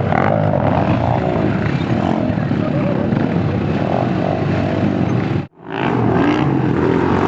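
Dirt bike engines running and revving, loud, with an abrupt break about five and a half seconds in before they start again.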